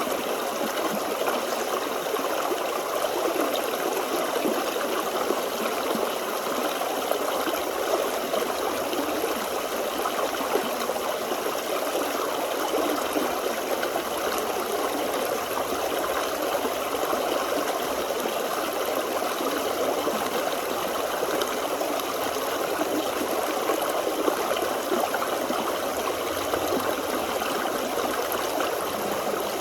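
Forest stream running over rocks, a steady flow of babbling and trickling water.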